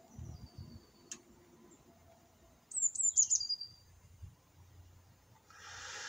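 A songbird singing in the background: a thin falling whistle at the start, then a quick run of high descending chirps about halfway through that ends on a short held note. A single sharp click about a second in, and a breathy hiss near the end.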